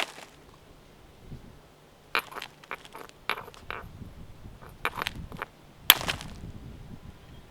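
A piece of stone raw material struck against a stone anvil to knock off flakes (the anvil technique of stone knapping), giving a series of sharp, irregularly spaced clacks. They begin about two seconds in, and the loudest comes near six seconds.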